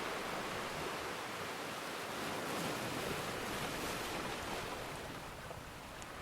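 Ocean surf washing steadily, swelling through the middle and easing off near the end, with a single faint crackle from a wood fire near the end.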